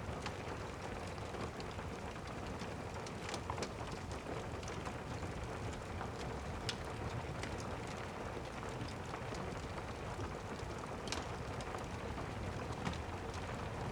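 Steady rain, with scattered sharp crackles from a wood fire in a fireplace.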